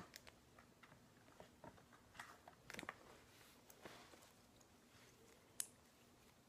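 Slime being stretched and poked: faint, scattered squishy clicks and crackles, with one sharper click near the end.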